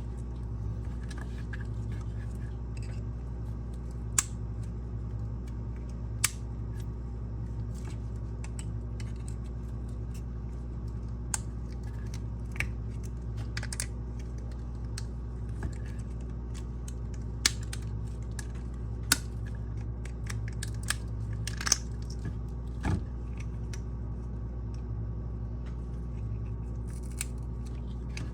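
Irregular sharp clicks and snaps of small hard parts being handled or cut, over a steady low hum.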